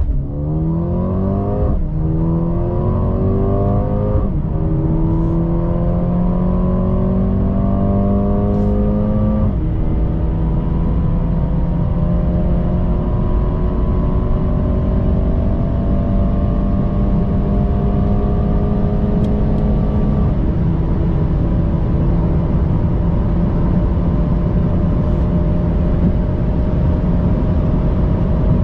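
Mercedes-AMG CLA 35's turbocharged four-cylinder engine under full-throttle acceleration, its note climbing in pitch through the gears. Four upshifts drop the pitch sharply, about 2, 4, 9.5 and 20 seconds in. Each gear runs longer than the last, ending in a slow steady rise at high speed.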